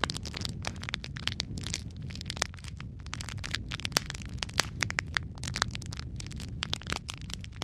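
Wood fire burning in a fireplace: a steady low rumble of flames under dense, irregular crackles and sharp pops, a few of them louder than the rest.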